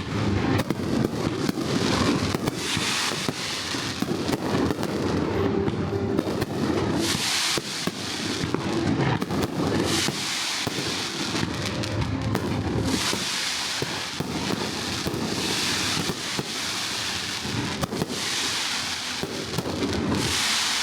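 Fireworks show: a rapid, continuous run of bangs and crackling bursts, with a musical soundtrack playing underneath.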